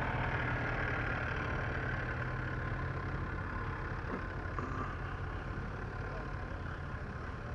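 Engine idling steadily with a low hum, slowly fading.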